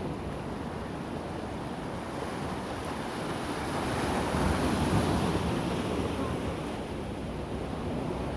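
Sea waves breaking on the shore, a steady wash that swells to a louder surge about halfway through, with some wind on the microphone.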